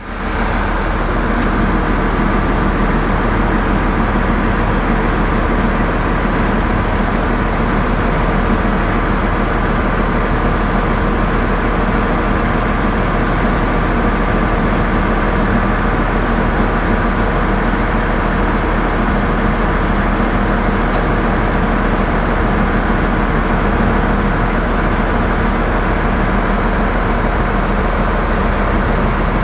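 Diesel truck engine running steadily at a constant speed, with a deep rumble.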